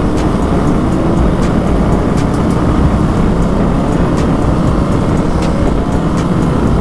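Dirt bike engine running under way, mixed with heavy wind rush on the helmet microphone; the engine pitch rises slowly a couple of times.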